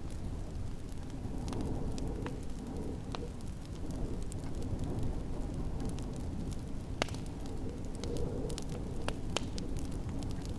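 Wood fire crackling, with a few sharp pops scattered through it, over a steady low rumble of snowstorm wind.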